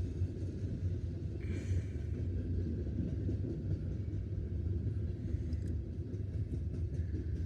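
Cars of a loaded coal freight train rolling past with a steady low rumble, and a brief high squeal about a second and a half in.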